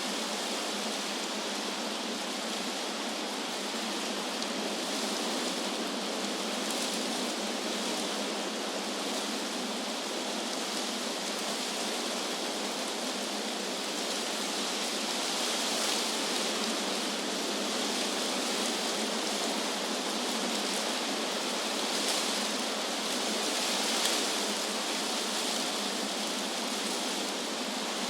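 Wind blowing through trees, a steady rushing hiss of leaves with a few brief, slightly brighter gusts in the second half.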